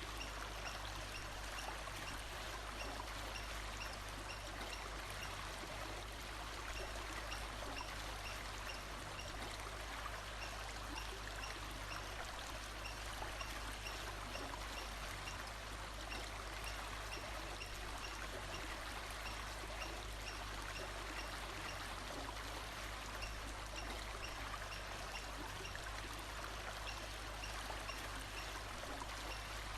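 Steady rush of a flowing stream. Through it comes a faint high call that repeats evenly about twice a second.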